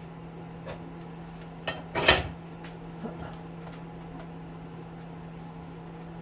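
Metal tools and hedge trimmer parts clinking during a teardown, with one louder metallic clank about two seconds in and a few lighter clicks after it, over a steady low hum.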